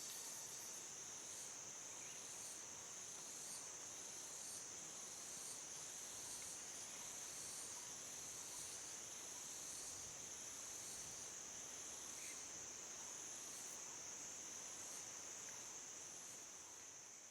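Jungle insects: a steady, high-pitched insect drone, with a fainter, higher chirp repeating about once a second, beginning to fade near the end.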